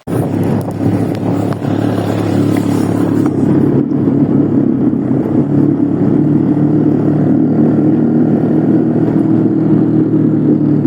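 Motorcycle engine running steadily while riding, cutting in suddenly at the start.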